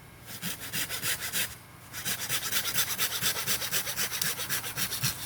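Hand saw cutting through a hollow bamboo stalk in fast, even strokes: a short run, a brief pause, then a longer steady run.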